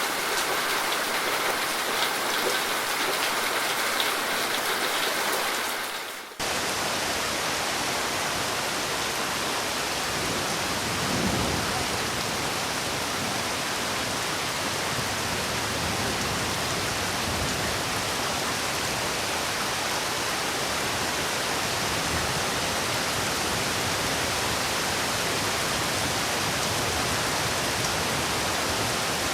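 Steady rain falling with a light patter. About six seconds in it dips briefly and cuts to a different, fuller and deeper steady rush of heavier rain, which carries on evenly.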